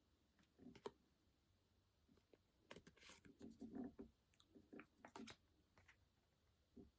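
Faint rustling and clicking of Pokémon trading cards and booster packaging being handled, in a few short bursts.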